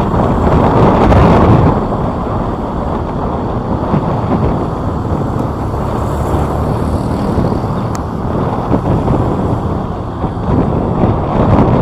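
Wind rumbling on the microphone of a moving motorbike, with road noise underneath, loudest in the first two seconds.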